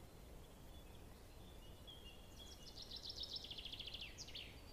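A songbird singing faintly: a few thin high notes, then a rapid trill of high notes that grows a little louder, ending in a quick falling flourish near the end.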